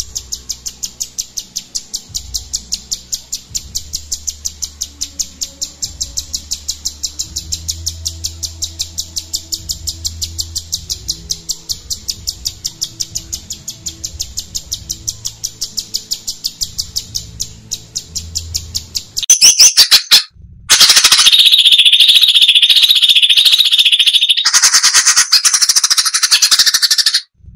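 Cucak cungkok (crested finchbill) calling. First comes a long, fast, even run of high ticking notes, about eight a second. Around two-thirds of the way in it breaks into loud, dense, rapid-fire song, with one short pause.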